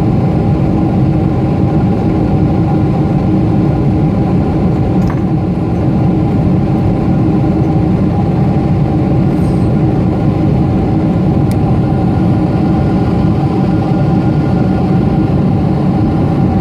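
Cabin noise of a Boeing 747-8's four GEnx jet engines and the airflow past the fuselage, heard from a window seat: a loud, steady noise with a few steady engine tones running through it.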